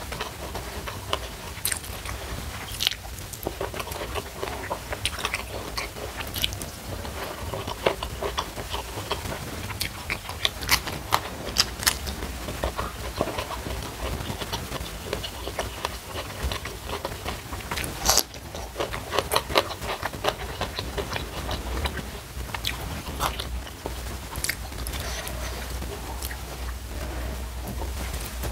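Close-miked chewing and biting of a hand-eaten meal of rice, salted fish and raw vegetables, with many short crisp crunches and wet mouth clicks over a steady low hum.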